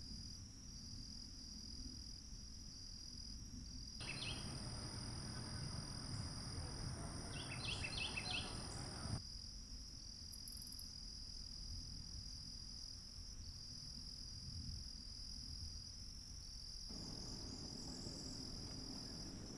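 Insects droning in a steady, high-pitched chorus over a low outdoor rumble, with a louder background noise cutting in and out abruptly a few times.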